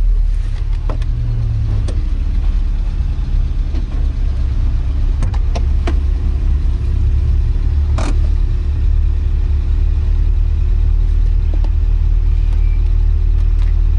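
Porsche 924's 2.0-litre four-cylinder engine running at low, steady revs, heard from inside the cabin, with a few sharp clicks or knocks now and then.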